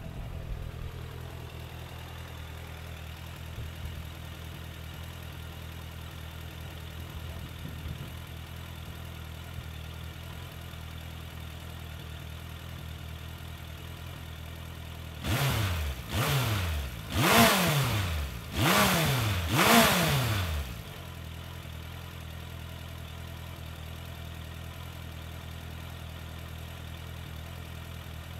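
2003 Suzuki Bandit 1200's air/oil-cooled inline-four idling steadily through its stock muffler, then revved with a quick run of throttle blips about halfway through, each rise in pitch falling back to idle.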